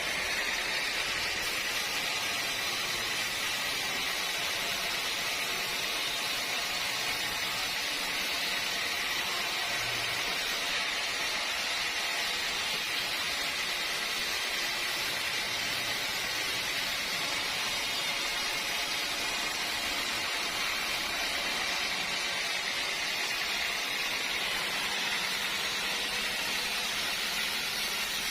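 Sawmill machinery running with a steady, even hiss that does not change.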